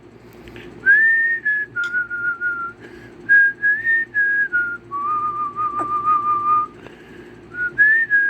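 Whistling: a slow run of clear, held whistled notes that step up and down, with a longer, lower note in the middle and a short pause before a few more notes near the end.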